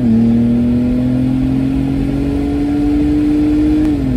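Ford Taurus SHO Police Interceptor's EcoBoost V6 pulling under acceleration, heard inside the cabin with its exhaust made louder by a cat-back delete. Its pitch climbs slowly, then drops sharply near the end, over steady tyre and wind noise.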